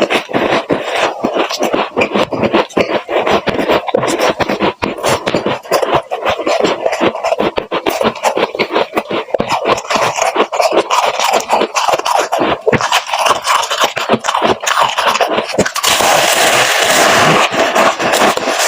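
Freezer frost crunching and scraping: a dense run of crisp crackles and clicks that thickens into a steadier crackle near the end.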